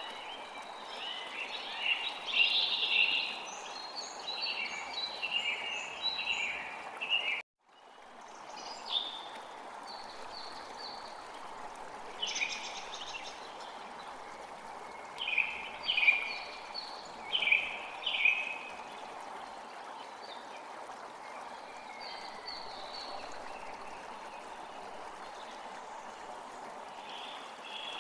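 Steady rush of flowing stream water with birds calling and singing over it in short bouts. The whole sound cuts out for a split second about seven and a half seconds in.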